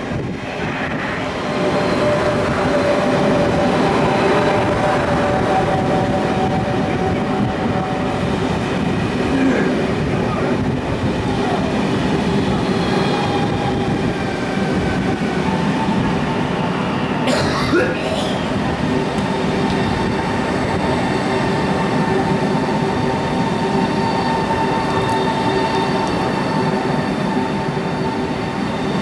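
CRH5 high-speed electric multiple unit rolling slowly along a station platform: a steady rumble with several steady whining tones over it, and a short burst of noise a little past halfway.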